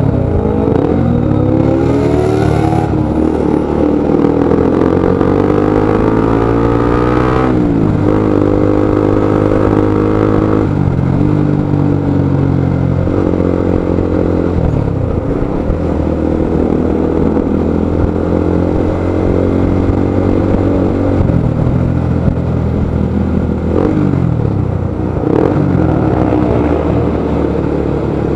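Motorcycle engine running under a rider's throttle, its pitch climbing in long rises and dropping sharply several times as the revs rise and fall.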